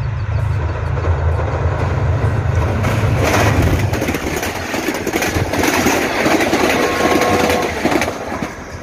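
Passenger train passing close by at speed. The diesel locomotive's low engine drone builds until it goes by about three to four seconds in, and then the coaches rush past with a steady rumble and rattle of wheels on the rails.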